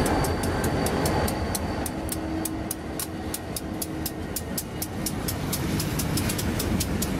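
Freight train rolling past: the trailing diesel locomotive's rumble eases off over the first couple of seconds. Covered hoppers and tank cars follow with a steady rolling rumble and a rapid, even clicking.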